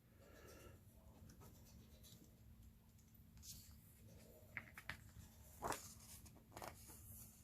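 Near silence with faint handling noises: a few light rustles and taps, loudest about six seconds in, from unboxed kit contents being moved by hand.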